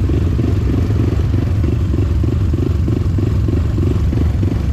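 Motorcycle engine running steadily under way, a loud low rumble with an even pulse, mixed with wind noise on the microphone.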